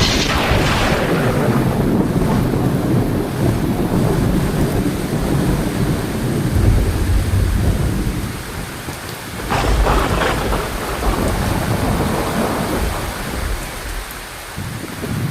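Heavy rain falling steadily with thunder: a sharp thunderclap right at the start that rolls into a long low rumble, and a second crack of thunder about ten seconds in.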